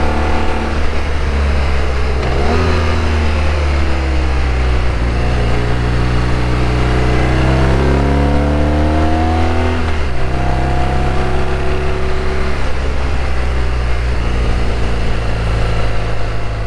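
BMW R1200RT boxer-twin motorcycle engine pulling on the road, with wind rush. The engine pitch dips briefly a couple of seconds in, climbs steadily for about six seconds as the bike accelerates, then drops suddenly at an upshift and runs steady after that.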